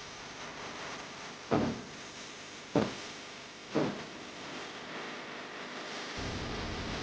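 Three short thuds, roughly a second apart, over a steady hiss.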